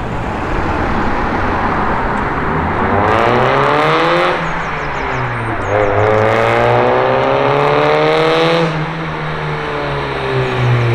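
Car engine accelerating: its pitch climbs, drops about four seconds in, climbs again and then falls away, like a car pulling away through a gear change.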